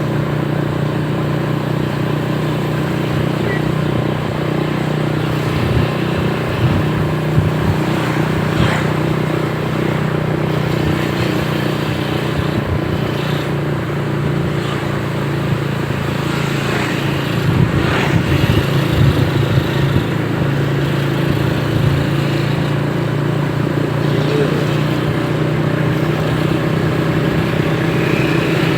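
Motorcycle engine running steadily at an even speed, with a few brief knocks over it.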